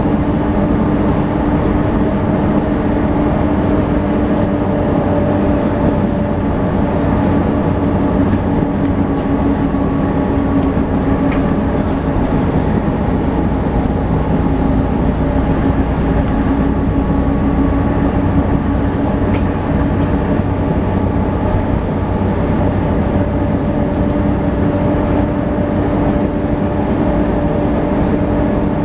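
Volvo B7TL double-decker bus running at a steady speed, its drivetrain giving off the steady whine that earns this bus type the name 'hoover', over continuous engine and road noise.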